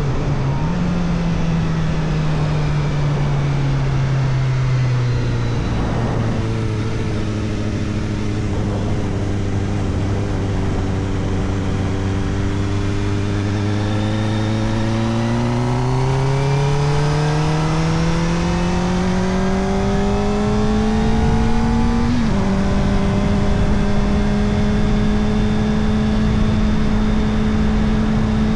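Kawasaki Ninja ZX-4RR's inline-four running through an Arrow Indy Race Evo titanium exhaust with the dB killer fitted, heard while riding. The engine note falls and holds steady at low revs. It then climbs steadily for about seven seconds under acceleration and drops sharply with an upshift a little past twenty seconds in, then holds steady again.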